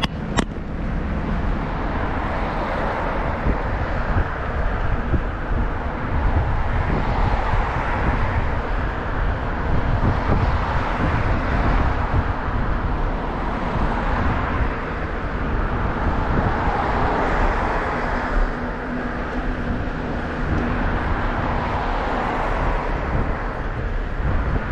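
Wind rushing over the microphone of a camera on a moving bicycle, with low road rumble, swelling and easing every few seconds. A short click about half a second in.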